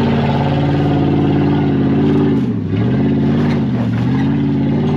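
Chevrolet Silverado Trail Boss pickup's engine working hard up a rocky off-road climb. Its revs hold high, then dip and come back up twice as the throttle is eased and reapplied.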